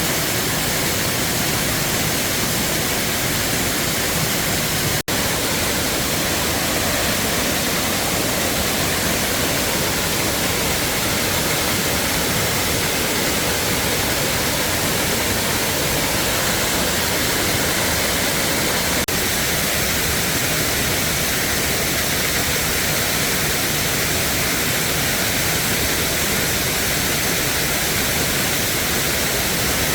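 Waterfall rushing with a steady, even wash of falling water, which cuts out for an instant about five seconds in.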